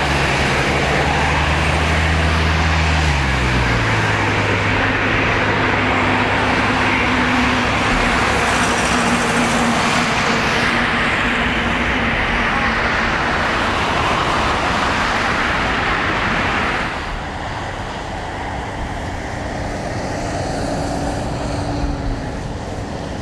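Jet engines of a Boeing 777-200ER airliner on its landing at close range: a loud, steady rush of engine noise whose low tones drop in pitch about three seconds in. The noise falls off sharply about seventeen seconds in, and a quieter rumble carries on.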